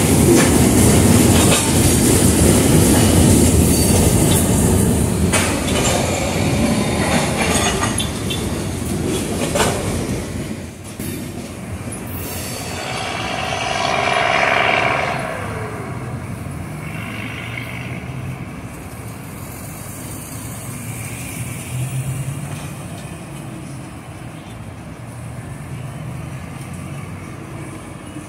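A freight train's cars rolling past, the wheels clicking steadily over the rail joints, loudest in the first ten seconds. After that the train is quieter, with a brief higher-pitched whine swelling and fading away about halfway through.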